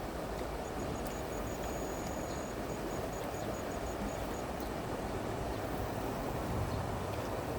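Steady rush of a clear stream's flowing water. A thin, high insect call starts about a second in, chirps in pulses, holds for a moment, pulses again and stops a little past the middle.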